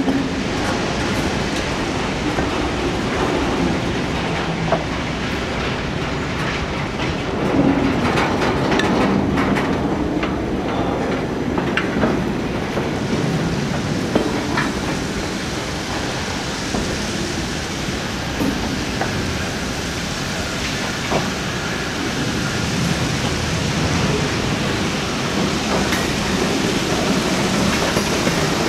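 Ballast train's hopper cars moving slowly along the track: a steady rumble with scattered metallic clanks and knocks.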